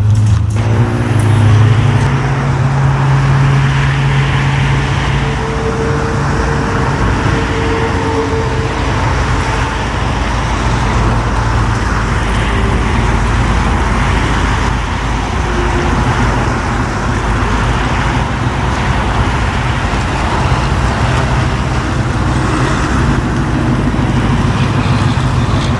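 Car engine running with a steady low hum over general traffic noise, with a few held low tones in the first several seconds.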